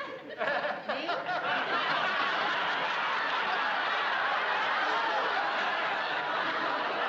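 Sitcom studio audience laughing, the laughter building up about half a second in and holding steady.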